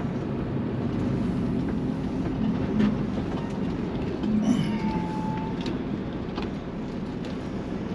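Semi-truck's diesel engine running with road noise, heard from inside the cab while driving; a steady low drone, with a brief faint high tone about five seconds in.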